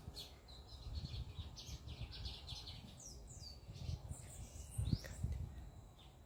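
Several small birds chirping, with rapid trills in the first few seconds and quick falling chirps after. A low rumble runs beneath, with a thump about five seconds in.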